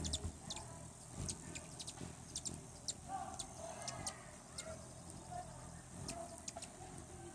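Hummingbirds calling: short, high chips and squeaks at irregular intervals, several in quick succession at times.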